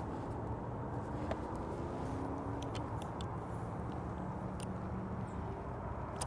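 Airplane passing overhead: a steady low engine rumble with faint tones sliding slowly down in pitch, and a steadier low drone in the middle.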